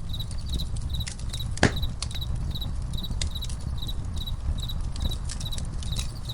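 Campfire crackling with scattered sharp pops and one louder pop about a second and a half in, over a low steady rumble of the burning fire. Crickets chirp in an even, high-pitched rhythm of a few chirps a second.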